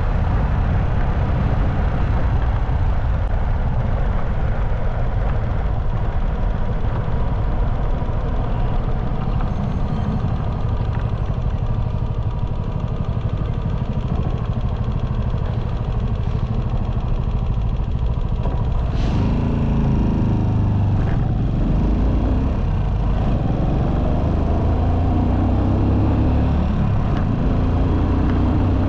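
Motorcycle riding at highway speed: steady wind rush with engine and road noise. From about two-thirds of the way in, a pitched engine note rises and falls over the noise.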